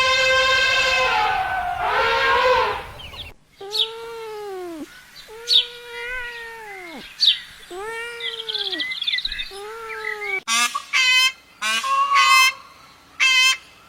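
A string of animal calls from different clips. A cow's moo ends in the first second or two and is followed by a shorter call. After a sudden cut come five arched, rising-then-falling calls about a second long each, with a few sharp clicks between them. After a second cut near the end there is a quick run of short, harsh calls.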